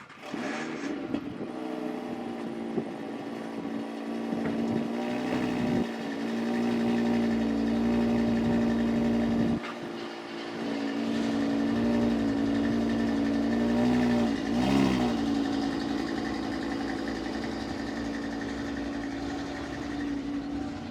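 Sports car engines idling, with short revs that bend the pitch up and back down twice.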